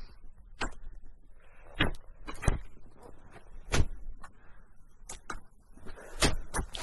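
Snowshoe steps in snow on a steep climb: irregular sharp footfalls, roughly one every second or less.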